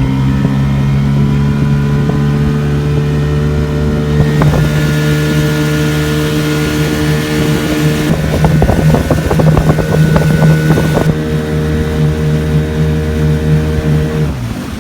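Dinghy outboard motor running steadily under way. From about eight to eleven seconds in, water splashing and slapping against the hull rises over it. Near the end the motor's tone drops away as it is throttled back.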